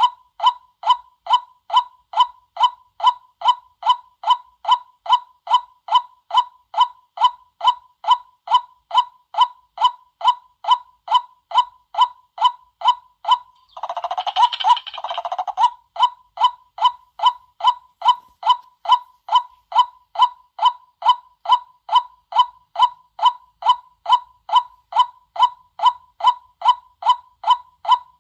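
White-breasted waterhen calling, a short 'kwak' repeated steadily about twice a second, a lure call meant to draw the birds in. About halfway through, a longer, rougher call breaks the rhythm for about two seconds before the steady calls resume.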